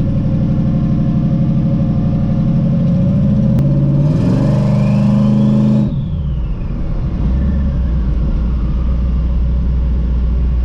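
Twin-turbo Camaro engine pulling under light throttle on the road, the pitch rising as it accelerates; about six seconds in the throttle closes, a hiss cuts off and the engine drops to a low steady drone while a faint whine rises and then fades away.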